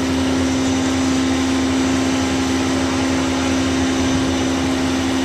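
Steady machine drone, a constant pitched hum that does not change.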